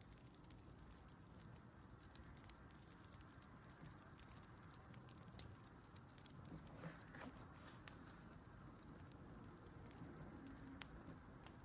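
Faint crackling of a wood fire: scattered small pops and snaps over a low, steady hiss.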